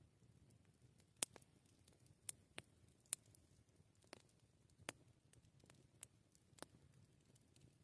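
Wood campfire crackling: sharp, irregular pops, about a dozen, over faint low background noise.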